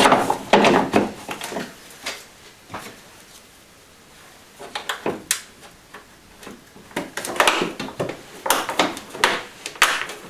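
Irregular clatter and knocks of car parts and tools being handled while components are fitted back into a car's engine bay. Louder near the start, with a quiet spell about three to four seconds in, then further clusters of knocks.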